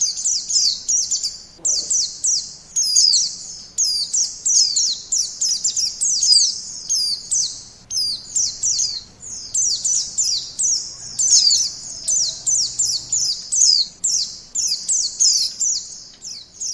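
White-eye (pleci) singing a long, fast run of high, thin chirps that slur downward, several a second, without a break. It is a lure song, used to draw in wild white-eyes.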